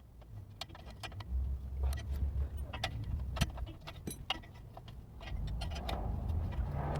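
Scattered light metallic clicks and clinks of hand wrenches working on exhaust bolts and hardware under a car, over low rumbling and scraping from the work; the rustling and scraping grow steadier near the end.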